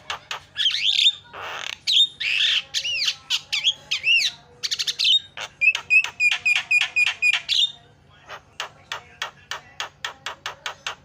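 Javan myna singing: runs of rapid dry clicks, then several seconds of varied whistles and gliding notes, with a fast repeated note about six times a second, and clicking again from about eight seconds in.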